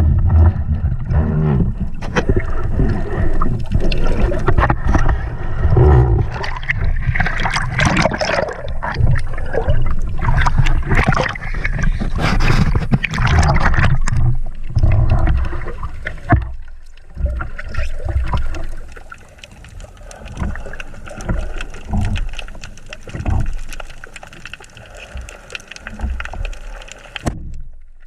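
Water sounds heard through an underwater camera: muffled rushing and gurgling water with many knocks and bumps. It grows quieter after about halfway and cuts off suddenly near the end.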